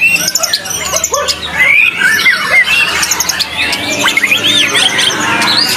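White-rumped shama (murai batu) singing loudly: a fast, unbroken run of varied whistles, chirps and swooping rising and falling notes.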